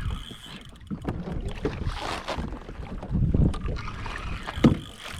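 Water sloshing against a fishing kayak's hull, with wind on the microphone and a few knocks on the hull, the sharpest near the end.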